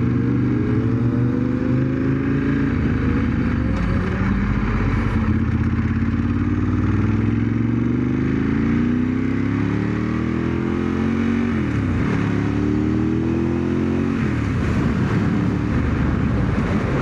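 A 1997 Ducati 916's V-twin engine pulling hard while riding, rising in pitch through each gear with three upshifts, where the pitch drops suddenly, about four seconds in, near twelve seconds and near fourteen seconds. Wind rushes over a helmet-mounted microphone underneath.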